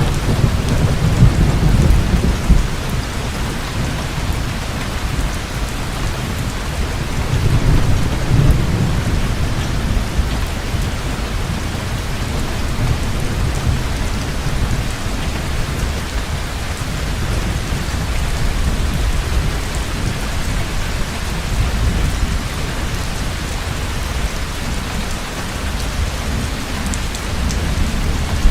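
Heavy rain falling steadily, with low rolling thunder swelling in the first couple of seconds and again about eight seconds in.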